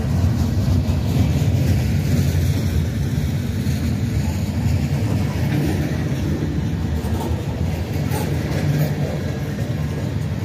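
Train running by with a steady, loud low rumble.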